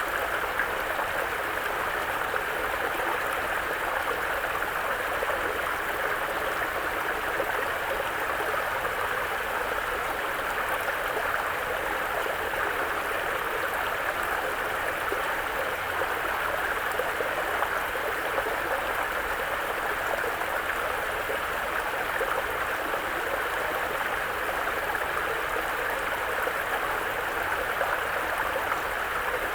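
A mountain brook running steadily over stones, with an even, unbroken murmur of flowing water.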